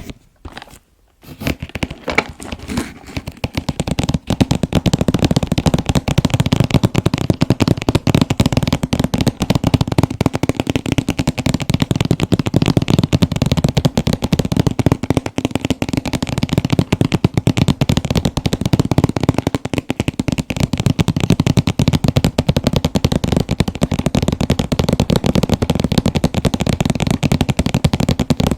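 Fingers tapping fast on an anime figure's packaging box, a dense, rapid clatter of taps. After a brief pause near the start, a few scattered taps pick back up into continuous fast tapping.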